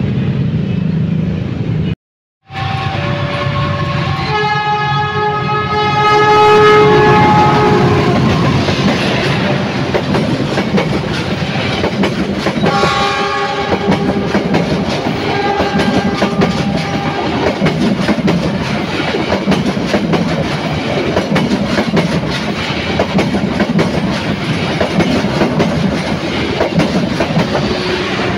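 Diesel locomotive's multi-tone horn sounds a long blast a few seconds in, then a shorter one near the middle, as a long passenger train passes close by. Its wheels rumble and clatter over the rails throughout. The sound drops out briefly about two seconds in.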